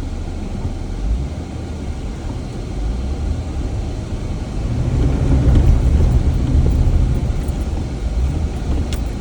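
Jeep engine and drivetrain rumble heard from inside the cabin while driving a muddy off-road trail, growing louder for a few seconds around the middle as the engine is given more throttle.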